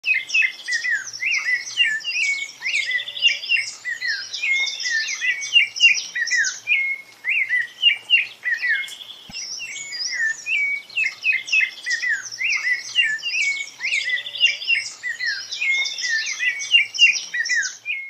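Small songbirds chirping and singing in a dense, continuous chorus of quick high chirps and trills, with a short lull about halfway through.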